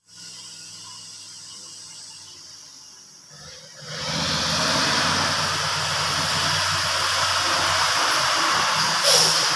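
Heavy logging truck's diesel engine running, quieter at first and much louder from about four seconds in, with a short sharp hiss near the end.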